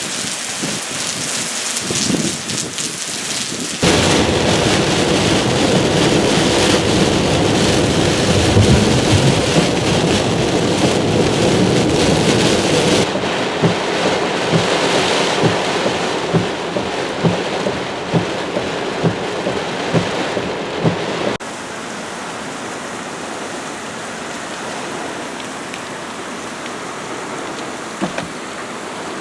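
Heavy tropical-storm rain and wind pouring down, a steady loud rushing. The sound jumps suddenly louder about 4 s in and drops back about 21 s in, with a run of short low thumps before the drop.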